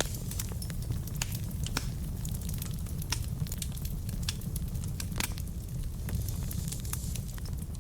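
Wood fire burning in a fireplace: a steady low rumble with many irregular sharp crackles and pops from the burning logs.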